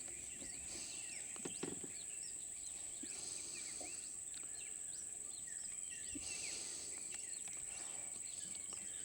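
Tropical rainforest ambience: a steady high-pitched insect drone with many short bird chirps and calls scattered over it.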